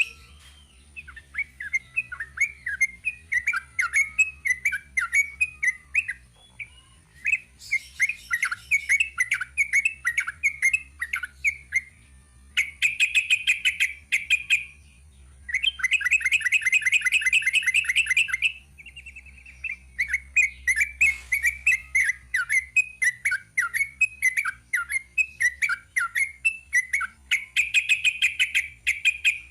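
Sooty-headed bulbul (trucuk) singing a long, continuous run of quick chirping phrases, broken by bursts of rapid trilling near the middle and again near the end. A faint steady high-pitched whine runs underneath.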